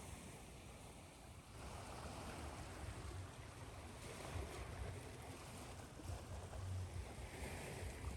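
Ocean waves washing in and receding: a continuous faint hiss that swells about one and a half seconds in and again near the end, over a low rumble.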